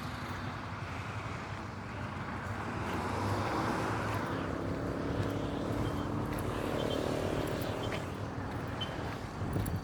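A motor vehicle passing on the road: a steady hum of tyres and engine that swells about three seconds in and eases off near the end.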